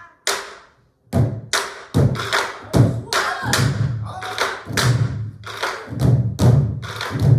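An ensemble of Korean buk, the barrel drums used to accompany pansori, struck together: a few scattered strokes, then from about a second in a steady run of strikes about every half second, each a deep thump with a sharp crack on top.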